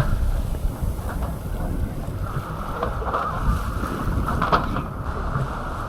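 A boat under way: a steady low rumble with wind buffeting the microphone.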